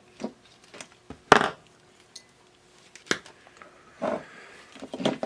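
Small metal hand tools clinking and knocking on a workbench while a stubborn bridge rectifier is worked free of a circuit board: a few sharp taps, the loudest about a second in and another about three seconds in, with softer scraping taps near the end.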